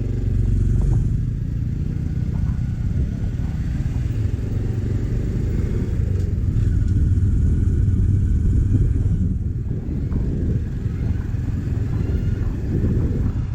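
Motorcycle running at a steady pace while being ridden along a road: a continuous low rumble.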